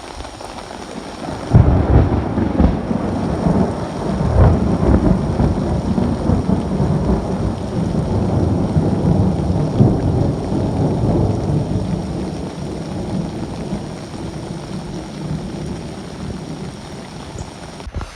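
Thunderstorm: steady rain with deep rolling thunder that starts about a second and a half in and swells and fades several times.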